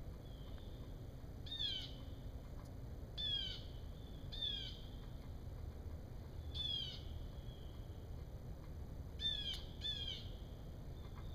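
A bird calling repeatedly with short, downward-sliding notes: six calls at uneven gaps, the last two close together near the end. Fainter calls sound in between.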